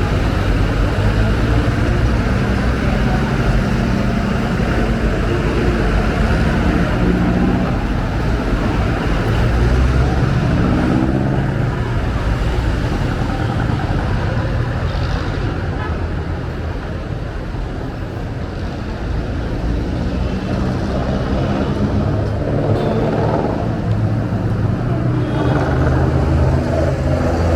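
Steady road traffic, with car and bus engines passing one after another, over a low rumble of wind on the microphone. One engine's pitch rises as it pulls away about ten seconds in.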